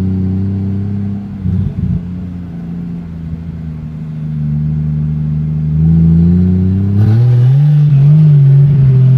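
Lexus SC300's swapped Toyota 2JZ-GTE straight-six, fitted with a 67 mm single turbo and no intercooler piping, pulling the car along slowly. There is a brief rough rattle near two seconds in. The revs sag, then climb about six seconds in and hold higher to the end as the turbo spools.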